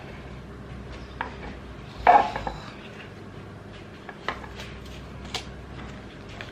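Scattered light clicks and taps of small hard objects being handled on a hard surface, with a louder clatter about two seconds in.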